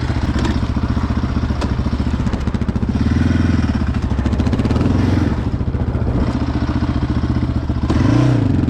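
Yamaha Raptor ATV's single-cylinder engine running under throttle, revving up briefly about three seconds in and again near the end, as the quad struggles for grip in soft snow.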